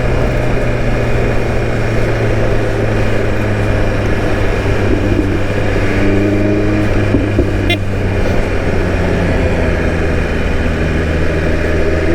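BMW S 1000 RR inline-four engine running at a fairly steady pitch while the motorcycle is ridden through traffic, over a steady rush of road noise.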